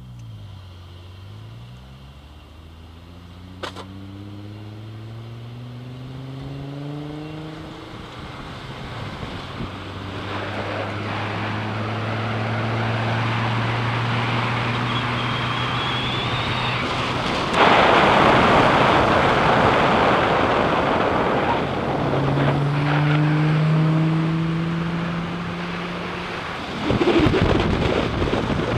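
A car engine accelerating away, its pitch rising steadily for several seconds, then settling into a steady cruising hum under growing road and tyre noise. About two-thirds of the way through, loud wind rush on the microphone sets in suddenly and covers the engine, which is heard again briefly before another gust near the end.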